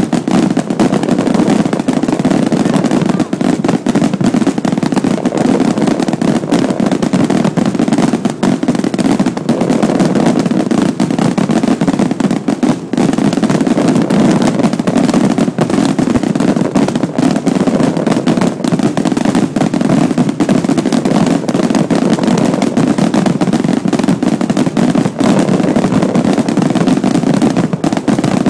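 Firecrackers and fireworks going off in a dense, unbroken crackle: rapid overlapping bangs with no let-up.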